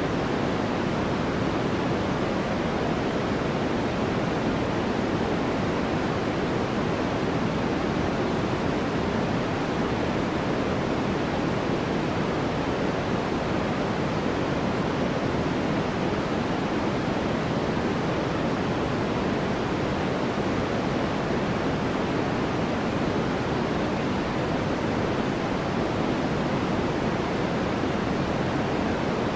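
Constant white noise for sleep: an even, unbroken hiss, heavier in the low and middle range than in the treble, with no change in level or tone.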